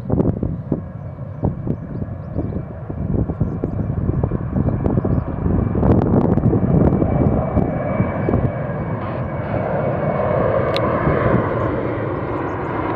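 Boeing 757 twin-engine jet running at takeoff power. The sound crackles at first, then settles into a steadier noise with a high whine about two-thirds of the way through.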